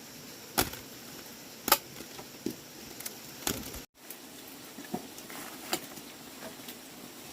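Irregular sharp knocks and clicks, about six of them, over a steady hiss; the loudest comes about a second and a half in.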